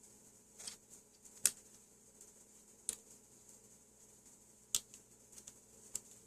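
A few light, sharp clicks and taps at irregular intervals, the loudest about one and a half seconds in and near five seconds, over a faint steady hum.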